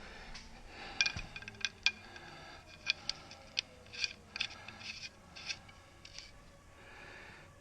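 Small metal hand tools or parts clinking together, about a dozen irregular, ringing clinks between one and five and a half seconds in.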